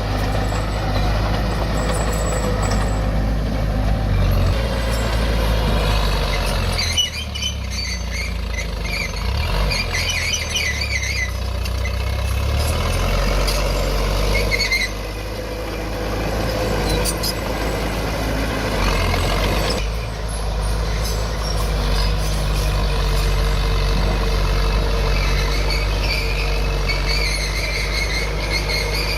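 Diesel earthmoving machinery running at a landfill: engine pitch shifts with load, with high squeals about a quarter of the way in and again near the end. The sound changes abruptly a few times.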